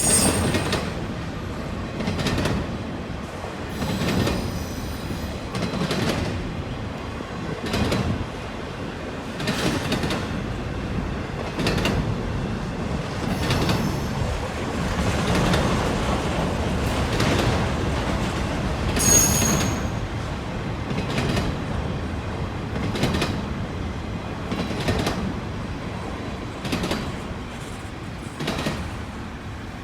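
Freight train cars rolling past, their wheels clacking over rail joints every second or two over a steady rumble, with a brief high wheel squeal about two-thirds of the way through.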